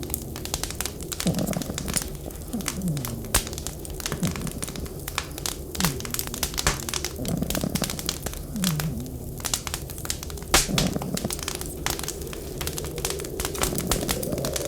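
Wood fire crackling with irregular sharp pops, two of them louder about three and ten seconds in, over a steady low background with short rising and falling low sounds underneath.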